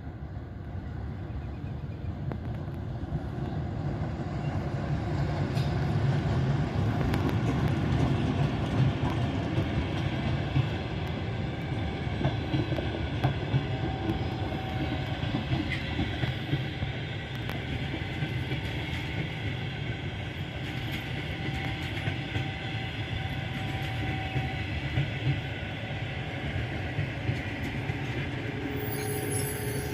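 Passenger train hauled by an EP1M electric locomotive rolling past: a steady rumble that grows louder over the first several seconds as the train draws near, then goes on as the coaches pass, with scattered clicks of wheels over the rail joints.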